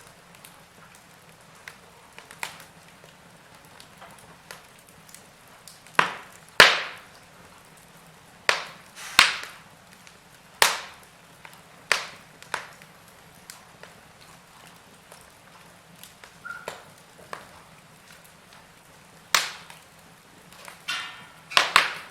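Wood fire burning in a fireplace, logs crackling with sharp irregular pops over a faint low hiss; the loudest pops come in short clusters.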